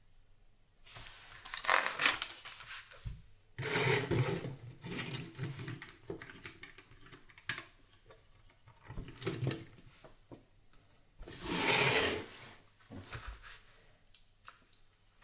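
LEGO pieces being handled during a build: several bursts of rustling and sliding, each lasting about a second, with small plastic clicks in between.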